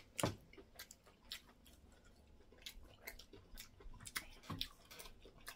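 Faint mouth sounds of people eating semolina fufu and egusi soup: wet clicks and lip smacks from chewing, coming irregularly a few times a second, the loudest just after the start.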